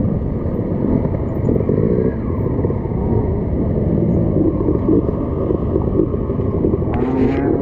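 Several enduro motorcycle engines running together at close range, idling and blipping at varied pitches, with one rev rising near the end.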